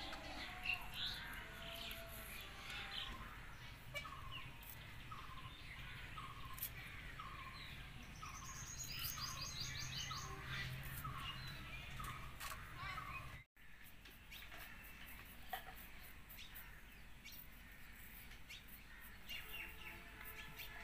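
Birds chirping and calling, one of them repeating a short falling note about twice a second for several seconds. The sound drops out for an instant about two-thirds of the way through.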